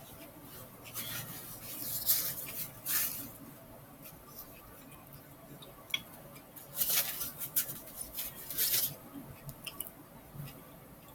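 Close-miked eating sounds of a burrito being chewed: wet mouth smacks and clicks, coming in two clusters, about two to three seconds in and again from about seven to nine seconds in.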